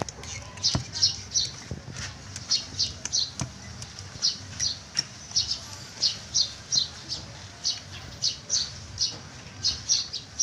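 A bird chirping over and over in short high bursts of three or four quick notes, about one burst a second, with a few faint clicks of small parts being handled.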